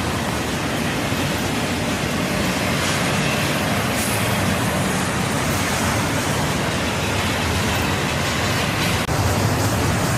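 Freight train rolling past: a steady rumble of wheels on rail. The sound drops out for an instant about nine seconds in and comes back a little louder.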